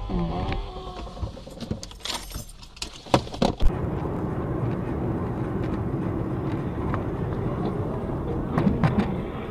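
Vehicle collision: a few sharp impacts with a metallic clatter about three seconds in, the loudest two close together, followed by steady road and engine rumble.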